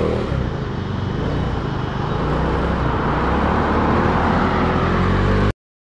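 Motor vehicle engine running with road noise, slowly growing louder, then cut off abruptly near the end.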